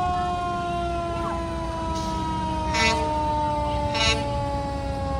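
Fire truck siren sounding one steady wail that slowly falls in pitch. Two short horn blasts come about three and four seconds in, over a low engine rumble.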